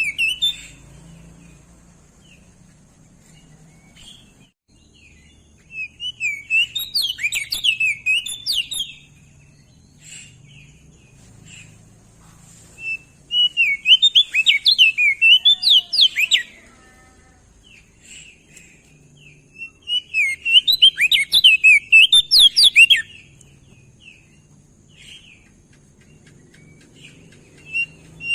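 Crested white-eye (opior jambul) singing in bouts of rapid, twittering warbled phrases, each lasting three to four seconds, with pauses of several seconds between them.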